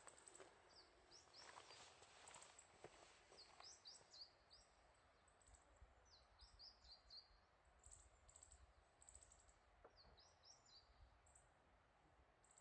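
Faint chirping of small birds: quick runs of short, high, falling notes, repeated several times over a low background hush.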